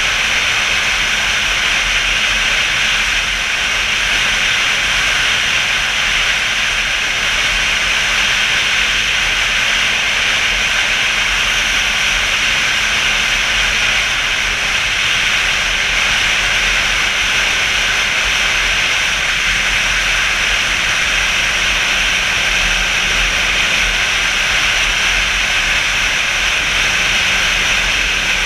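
Steady rush of wind and road noise on the microphone of a motorcycle at cruising speed, with the engine faint beneath it.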